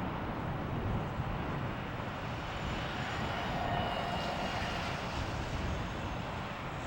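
Jet engines of an Airbus A350-900, its Rolls-Royce Trent XWB turbofans, running as the airliner passes: a steady rushing noise with a faint engine whine that is strongest around the middle.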